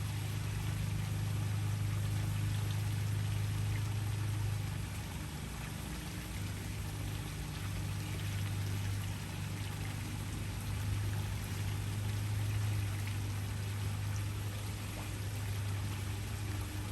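Waterfall: a steady rush of falling water, with a low hum underneath that fades for a few seconds in the middle.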